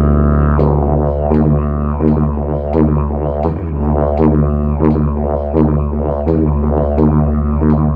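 Yidaki (didgeridoo) being played: a steady low drone that, about half a second in, breaks into a rhythmic pattern of shifting overtones with sharp accents about twice a second.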